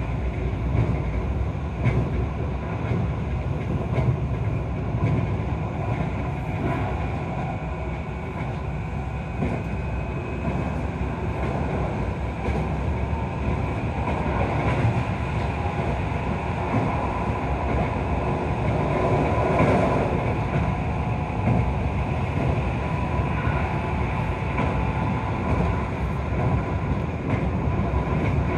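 Keio 5000-series electric train running at speed, heard from inside the passenger car: a steady rumble of wheels on rails with occasional faint clicks over rail joints. The noise swells briefly about two-thirds of the way in.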